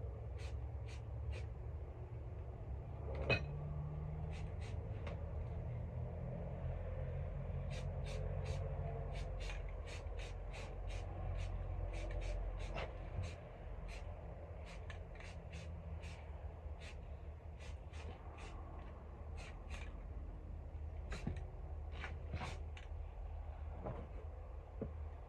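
Many short, sharp clicks at an irregular pace of about two or three a second over a steady low hum, with one louder knock about three seconds in.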